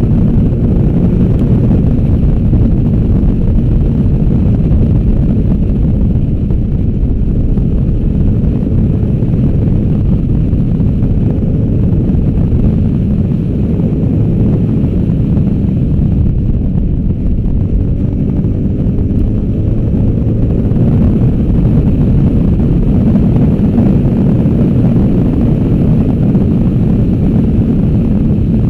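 V-twin adventure motorcycle ridden at speed, its engine note rising and falling with the throttle under a heavy, steady rumble of wind on the microphone.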